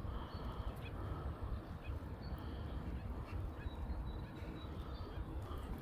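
Faint bird calls, short high notes repeating every second or so, over a steady low rumble.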